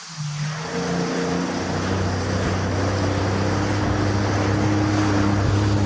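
Jet ski engine picking up speed about half a second in, then running steadily and growing slightly louder, over wind and water rush.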